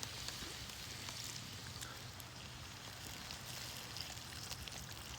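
Food sizzling steadily in a pan over a campfire, with a few faint crackles.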